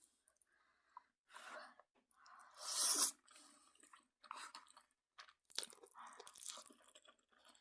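A person eating Chapagetti noodles close to the microphone: bursts of chewing and wet mouth sounds, the loudest about three seconds in.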